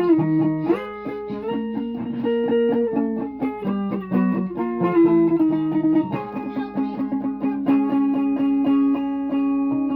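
Music from a plucked string instrument, likely a guitar: a run of short picked notes, with a low note ringing on steadily under further picked notes through the second half.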